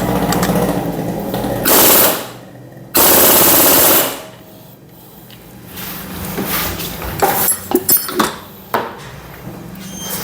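Impact wrench run in two short bursts, the second about a second long, tightening a bolt. Light clicks and knocks of tools being handled follow.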